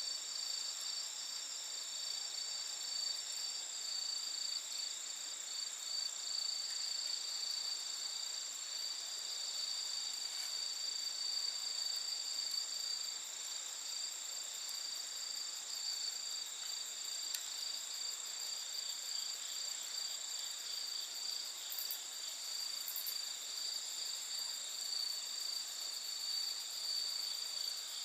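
A steady chorus of night insects such as crickets, shrill and continuous, with a few faint crackles from the campfire.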